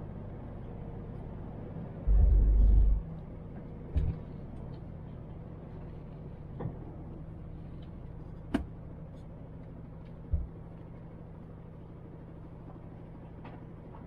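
MAN TGX truck's diesel engine running steadily while driving. A heavy low thud about two seconds in lasts nearly a second, and a few short sharp knocks follow.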